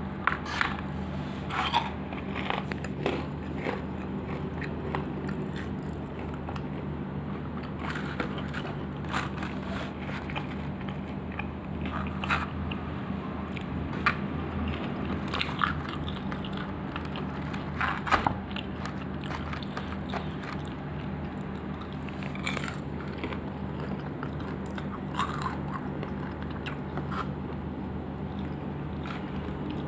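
Close-up eating of crispy smashed fried chicken (ayam geprek): biting, chewing and irregular crunches of the fried crust, with mouth sounds. A steady low hum runs underneath.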